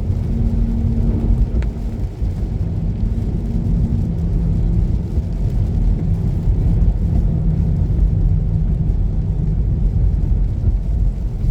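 Car driving on a snowy, slushy road, heard from inside the cabin: a steady low rumble of tyres and engine with a faint engine hum.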